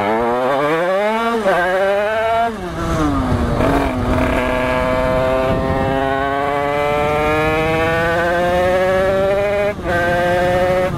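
Rieju MRT 50's two-stroke engine, fitted with an 86cc Italkit cylinder kit and a 2Win expansion-chamber exhaust, accelerating hard under load. The revs climb quickly and drop at upshifts about a second and a half in and again around two and a half seconds in. It then makes one long, steadily rising pull in a higher gear, with a brief break for another shift near the end.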